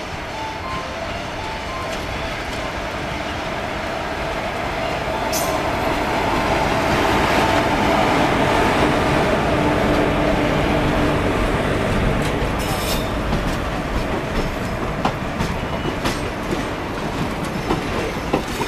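Indian Railways WAP4E electric locomotive pulling a passenger express out of a station and passing close by. Its rolling noise and a steady hum grow to their loudest about halfway through, with a few metallic clanks. The coaches then roll past, their wheels clicking over the rail joints.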